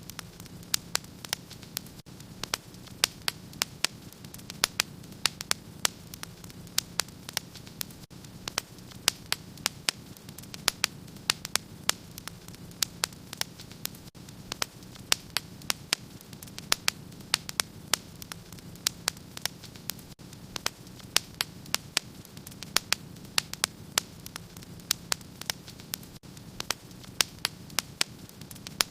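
Fire in a fireplace crackling: frequent sharp, irregular snaps and pops over a low, steady rumble of the burning fire.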